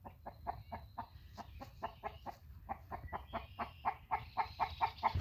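Backyard poultry calling in a fast run of short, repeated calls, about five a second, growing louder near the end.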